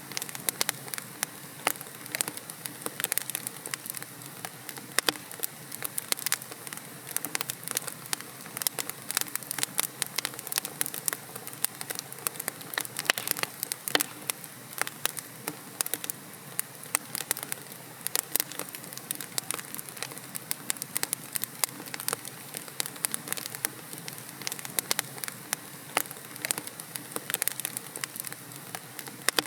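Wood logs burning in a fireplace: a steady soft hiss of flames with dense, irregular crackles and pops.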